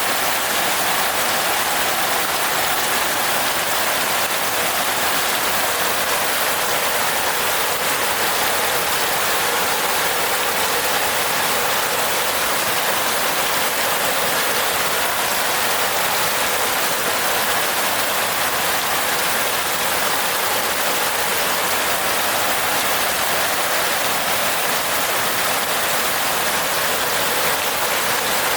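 Steady rain falling on a roof: an even, unbroken hiss of many drops, with no single drop standing out.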